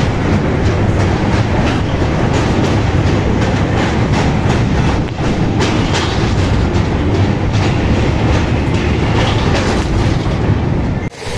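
Passenger train running at speed across a steel truss girder bridge, heard from an open coach doorway: a loud steady rumble with a rapid clatter of wheels on the rails. It breaks off suddenly near the end.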